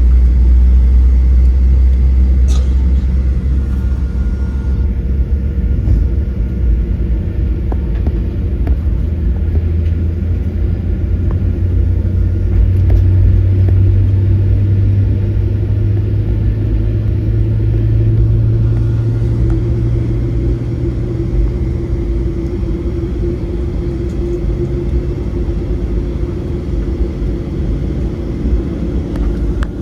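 Boeing 737-700 CFM56-7B jet engines and airflow heard from inside the passenger cabin: a steady, loud low rumble with a hum that rises slightly in pitch partway through, then holds.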